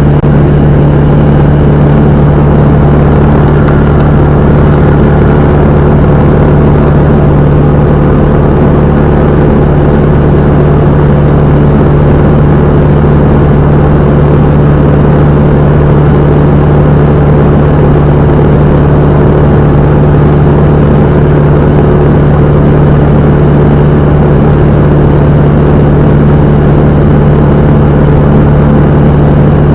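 Cessna 172M's Lycoming O-320 four-cylinder piston engine and propeller running steadily at a constant power setting, a loud unchanging drone.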